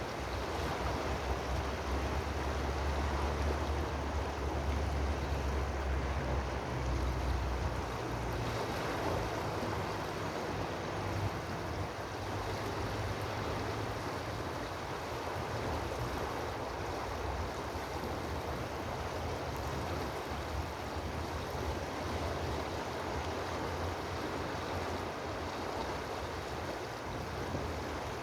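Steady rushing noise of running water, with a low rumble underneath for about the first eight seconds.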